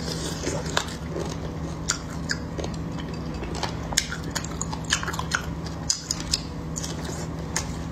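Close-miked mouth sounds of chewing and biting crispy, oily fried beef brisket, with many sharp crackly crunches scattered through the chewing.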